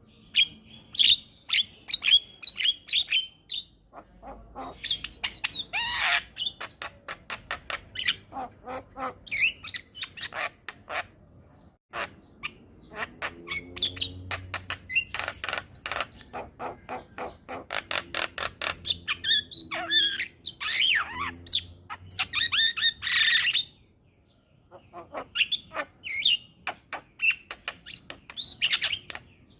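Javan myna (jalak kebo) singing a long, chattering song: rapid trains of dry clicks and harsh squawks mixed with short whistled notes, broken by two brief pauses.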